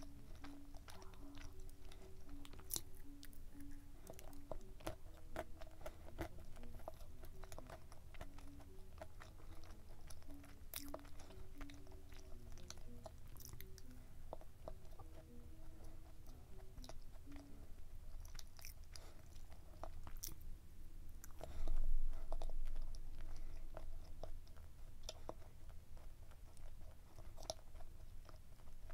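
Close-miked chewing of a soft muffin: moist mouth sounds and small clicks as it is bitten and eaten, with one louder moment about three-quarters of the way through. A soft background melody plays in the first half.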